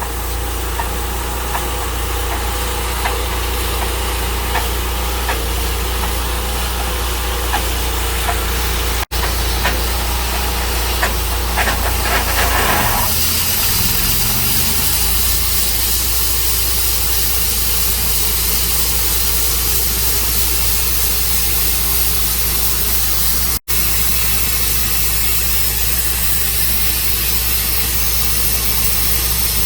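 An engine running steadily, most likely the sawmill's. About thirteen seconds in its pitch dips and comes back up, and a higher hiss joins it, which then carries on.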